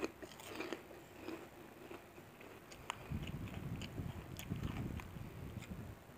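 A person chewing food close to the microphone: a few sharp crisp clicks in the first half, then steady chewing from about three seconds in.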